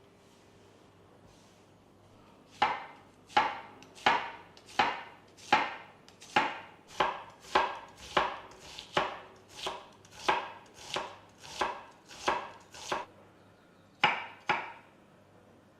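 A kitchen knife chopping on a cutting board, starting a couple of seconds in: a steady run of about seventeen strokes, roughly one and a half a second, then two quick chops after a short pause.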